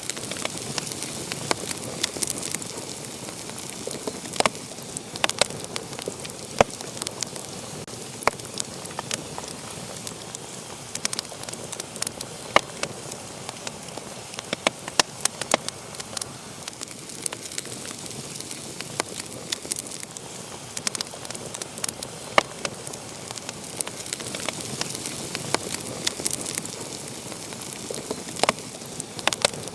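Wood fire burning in a fireplace, with a steady hiss and frequent sharp, irregular crackles and pops.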